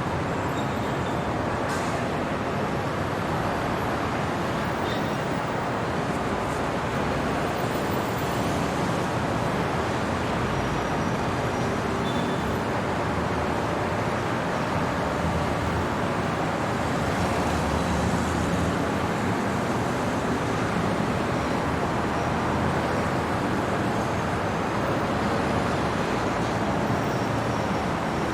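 Steady city traffic noise at night, a continuous hum of passing vehicles with a few faint short tones and clicks over it.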